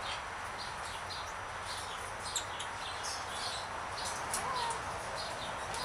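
A flock of parrots giving short, high chirps scattered throughout, with one short whistle a little past the middle, over a steady hiss.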